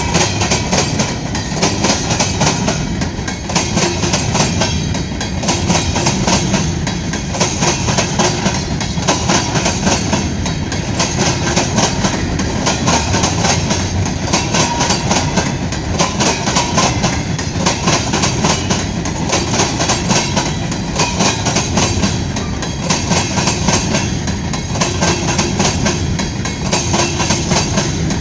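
Freight train of stone-laden open-top hopper cars rolling past, the wheels clicking steadily over rail joints above a continuous noise of steel wheels on rail.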